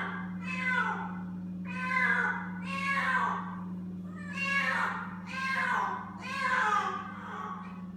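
Feral kittens meowing over and over, about once a second, each meow falling in pitch. These are the calls of frightened kittens. A steady low hum runs underneath.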